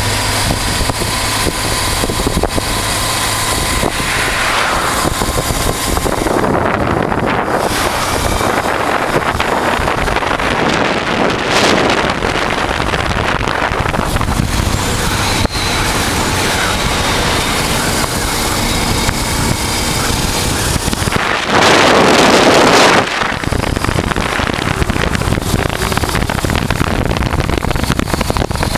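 1988 Honda Transalp's V-twin engine running steadily under way, with wind rushing over the microphone. A louder rush of noise lasts about a second and a half roughly three-quarters through.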